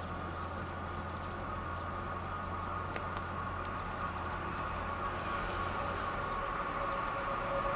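Electric train approaching while still far off: a steady whine that slowly grows louder, with a lower tone joining it near the end.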